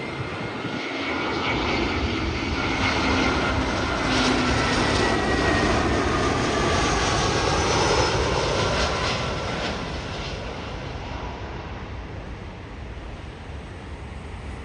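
Jet airliner passing close by, its engine noise building to a peak about eight seconds in and then fading, with whining tones that fall in pitch as it goes past.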